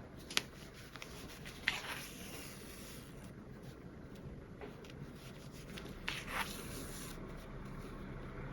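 Handling of fabric and sewing tools: a few sharp clicks and two brief rubbing, scraping strokes over a faint steady hum.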